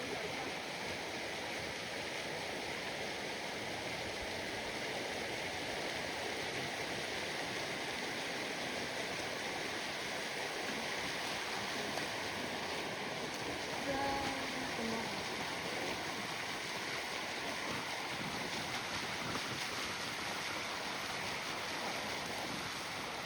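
Steady rush of river water around a bamboo raft, with a brief faint pitched sound about fourteen seconds in.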